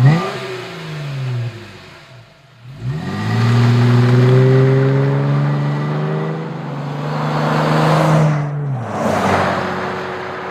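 Exhaust note of a Jeep Wrangler JK's 3.6-litre V6 through a Flowmaster Force II axle-back with a Super 50 series muffler. The engine is blipped and falls back, then climbs and holds a steady high note for about five seconds before dropping away to idle. A short rush of noise comes as the note drops.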